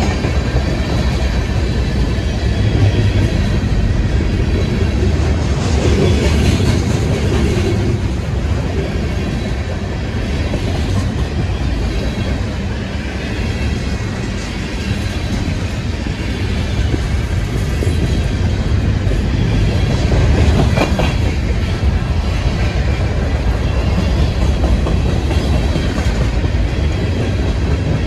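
Train rolling past: a loud, steady rumble of wheels on the rails, with a few brief knocks along the way.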